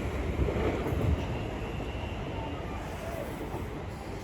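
Greater Anglia Class 720 electric multiple unit running into the platform: a steady rumble that eases slightly after about a second.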